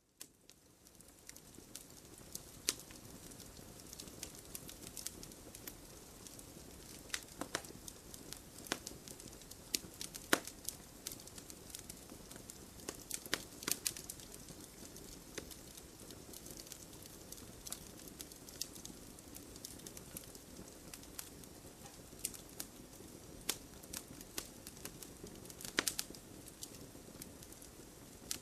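Wood fire crackling in a fireplace: a soft steady hiss of flames with irregular sharp pops and snaps, a few of them louder. It fades in at the very start.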